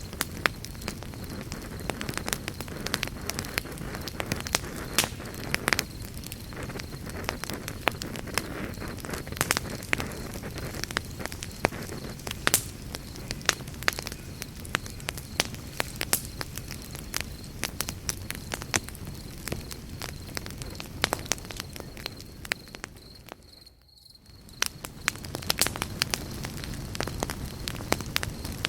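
Campfire burning, with a steady low rush and frequent irregular crackles and pops of burning wood. About 24 seconds in the sound fades almost away for a moment, then comes back.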